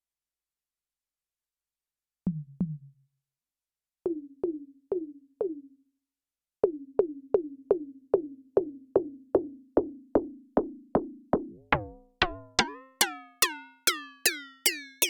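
Elektron Syntakt's PC Carbon digital percussion machine playing short pitched percussion hits whose pitch drops as each one decays. After two isolated hits and a group of four, it settles into a steady pattern of about three hits a second. About twelve seconds in, the tone turns brighter and higher, with longer ringing overtones.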